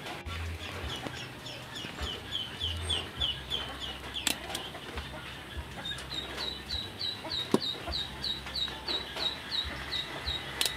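A small bird peeping in two runs of short, high, falling chirps at about four a second, the second run slightly higher. Two sharp clicks stand out over a low steady hum.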